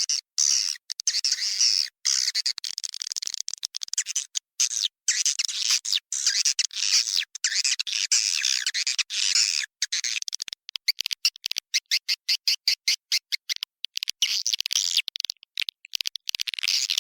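Recorded swiftlet calls in a dense twittering chorus, turning about ten seconds in into a rapid run of short, clipped chirps before the twittering returns near the end. This is a roosting-call lure track played in swiftlet houses to draw swiftlets in to nest.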